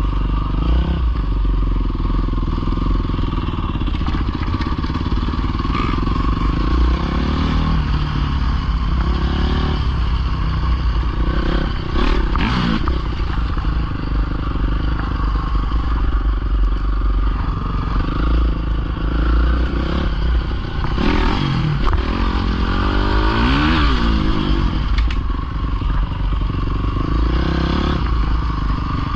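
Small dirt bike engine running with the throttle worked up and down, its pitch rising and falling several times, with a run of quick revs near the end.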